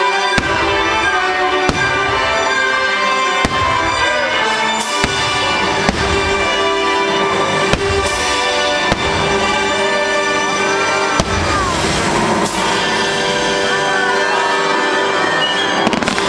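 Fireworks going off in sharp bangs every second or two over loud show music playing through loudspeakers.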